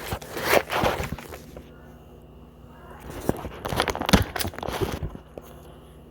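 A wooden popsicle stick being forced into a raw apple: scraping and crunching in two spells, the second about three seconds in.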